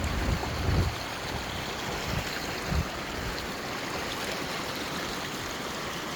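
Stream water running steadily over rocks, a continuous rushing, with a few low thumps in the first three seconds.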